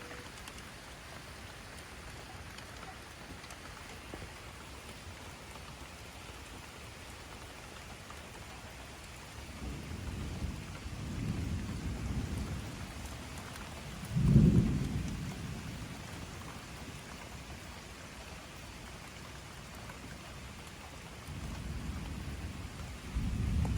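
Thunderstorm: steady rain falling, with thunder rumbling low several times; the loudest peal comes about halfway through, and the rumbling builds again near the end.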